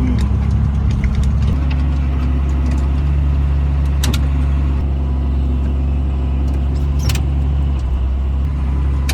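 A vehicle engine running steadily with a low hum, with light rattles and a few sharp clicks, the clearest about four and seven seconds in.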